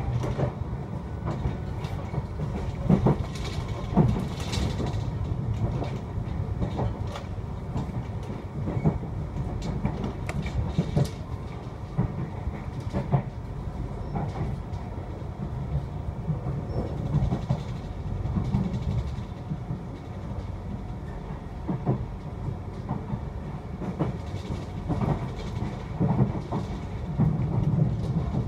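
Passenger coach of the Argo Bromo Anggrek express train running at speed, heard from inside the coach: a steady low rumble with irregular clicks and knocks as the wheels cross rail joints.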